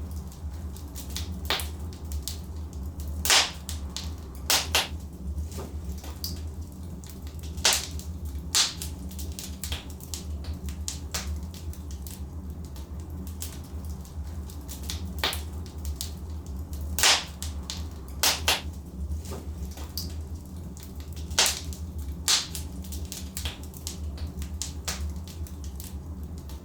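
Wood fire burning in a fireplace: irregular sharp crackles and pops over a steady low rumble, with a few louder pops.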